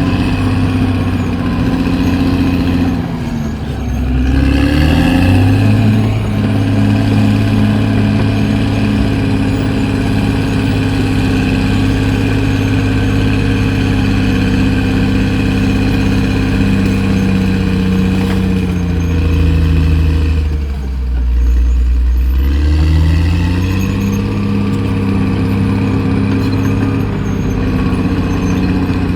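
Caterpillar D6R XL bulldozer's diesel engine running steadily. Its engine speed drops and climbs back up twice, once a few seconds in and again about two-thirds of the way through.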